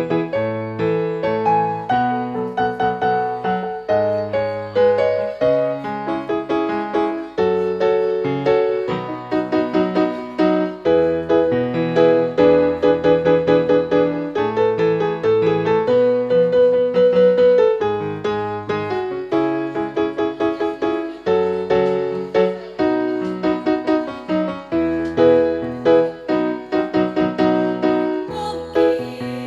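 Keyboard with a piano sound playing an instrumental passage, a melody over chords and a bass line, without singing.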